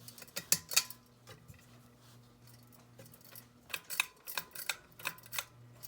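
Irregular sharp clicks and clinks in two clusters, one about half a second in and the other from about four to five and a half seconds in, over a faint steady low hum from the running SMC DC42 ceiling fan.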